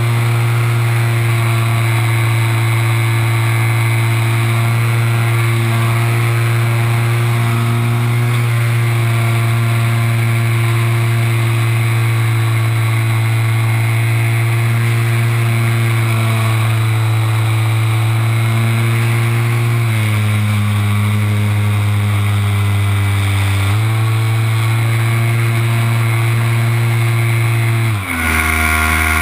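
Motor and propeller of an RC Super Cub model plane, heard from a camera mounted on the plane, running at a steady pitch. The pitch steps down about two-thirds of the way through, comes back up a few seconds later, and drops sharply near the end as the throttle is cut back.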